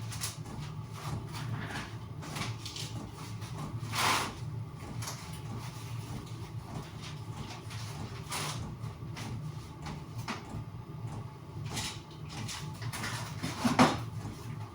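Staple gun driving staples through roofing felt into a wooden lid: a few separate sharp snaps, the loudest near the end, over a steady low hum.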